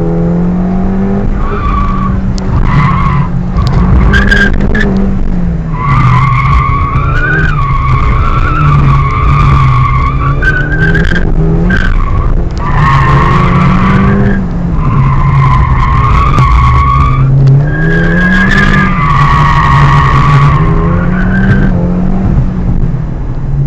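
Car driven hard: the engine's revs climb and drop again and again, and the tyres squeal in long stretches of a few seconds through the corners.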